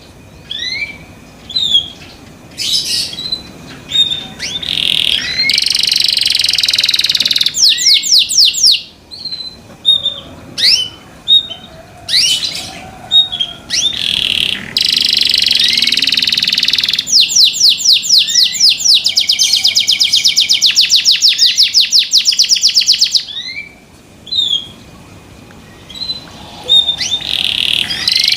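Domestic canary singing loudly: short rising chirps, long held rolls and runs of rapid repeated notes, broken by a few short pauses.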